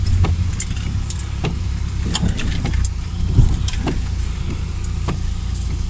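Lada Niva's engine running with a steady low drone, heard from inside the cabin as it drives a rough muddy track. Frequent short knocks and rattles cut through it, the loudest about three and a half seconds in.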